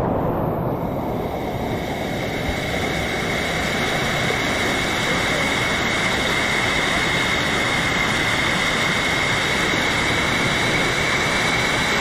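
Steady rush of a waterfall's falling water, an even noise without pauses or changes.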